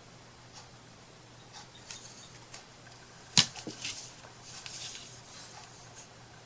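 Small taps, clicks and scratchy handling sounds of hand craft work at a table, with one sharp click about three and a half seconds in, over a faint steady hum.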